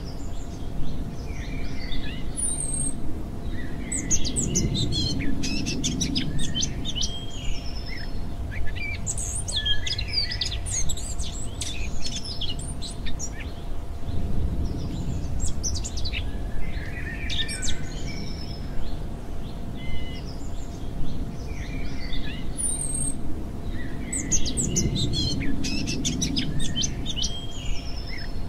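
Nature-sounds backing track of birdsong: many small birds chirping and trilling in clusters over a steady low outdoor rumble.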